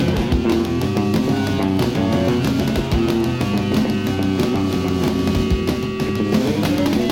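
Live punk rock band playing an instrumental break with no vocals: distorted electric guitar over bass and drums, loud and steady.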